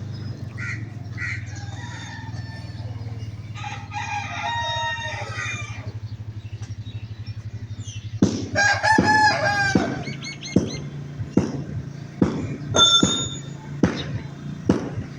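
Rooster crowing, with a shorter call a few seconds in and a longer, louder crow about eight seconds in, over a steady low hum. In the second half come a series of sharp knocks about once a second.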